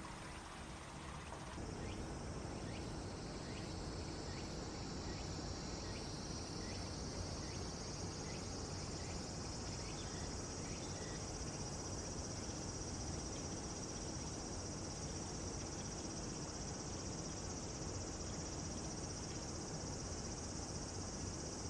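Insects trilling in a steady high-pitched chorus that swells about a second and a half in, over a low steady background rumble.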